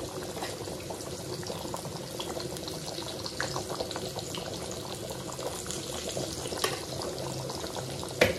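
Pot of khichuri bubbling and simmering, a steady bubbling with small crackling pops. Two sharper knocks, one about two-thirds through and one near the end.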